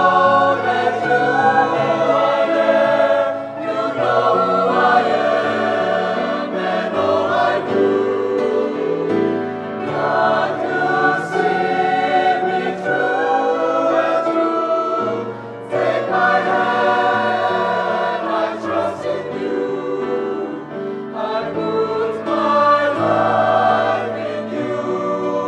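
Mixed choir singing a sacred song in sustained phrases, with short breaths between phrases.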